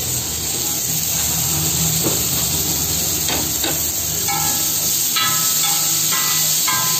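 Paneer and onion frying on a large flat iron tawa, a steady hiss of sizzling, with a few sharp scrapes of a metal spatula on the pan about two to four seconds in. About four seconds in, a tune of background music starts.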